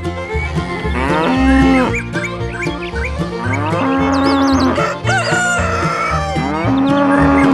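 Cattle mooing, three long moos, over upbeat country-style background music.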